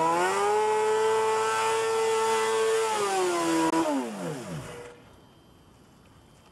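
Honda CBR motorcycle engine revved hard and held at high revs for about three seconds during a burnout attempt, then the revs fall away and the sound drops off sharply about five seconds in.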